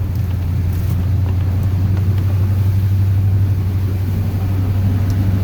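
Steady low drone of a Chevrolet plow truck's 8.1-litre Vortec big-block V8, heard from inside the cab.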